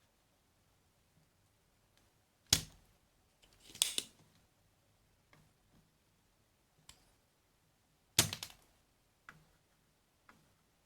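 Sharp snaps and clicks of small hand tools working on a circuit board: two loud snaps about two and a half and eight seconds in, a short cluster around four seconds, and a few fainter clicks between.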